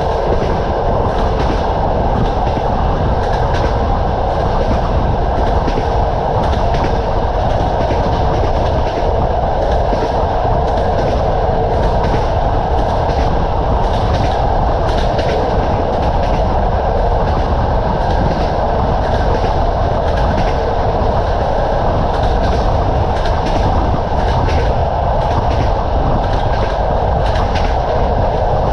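Train running steadily along the track: a constant rumble of the carriage with the clickety-clack of the wheels over the rail joints, a click every second or so.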